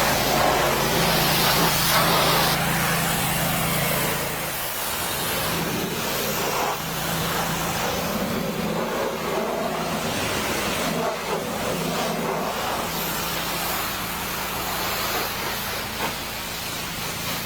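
Pressure washer spraying water onto a car, a steady hiss of spray over the humming motor, easing slightly after about four seconds. It is blasting the dirt off the car.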